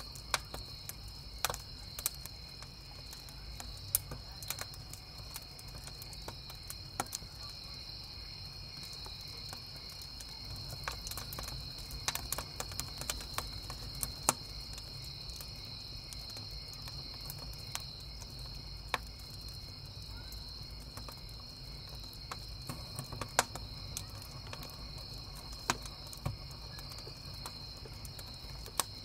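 Wood campfire crackling with scattered sharp pops, a brief flurry of them near the middle, over a low steady rumble, while crickets chirp in a steady high chorus.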